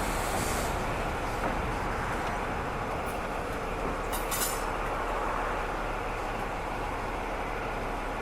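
Train running: a steady rumble and hiss. A high hiss fades out in the first second, and there are a few short sharp high squeaks or clicks about three and four seconds in.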